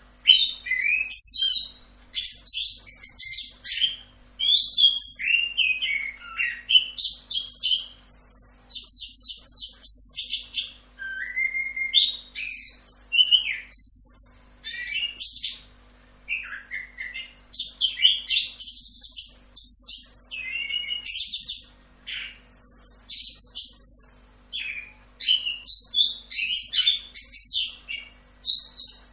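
Chestnut-capped thrush (anis kembang) singing a long, near-continuous song of fast, varied whistles and trills, with only brief pauses.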